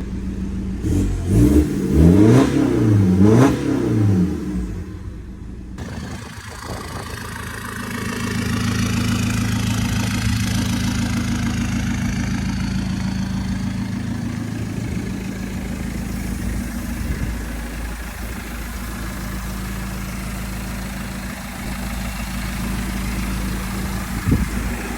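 Straight-piped BMW E61 exhaust with a stage 2 downpipe: the engine is revved about three times in quick succession, then settles into a steady idle a few seconds in.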